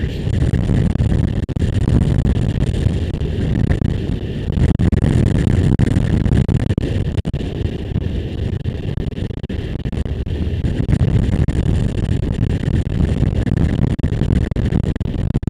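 Motorcycle riding along, its engine running steadily under wind buffeting the microphone.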